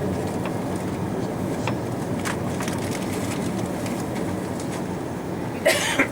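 Steady low rumble of cabin noise inside an Airbus A340-300 airliner on the ground before takeoff, with a few faint clicks. A brief loud clatter comes near the end.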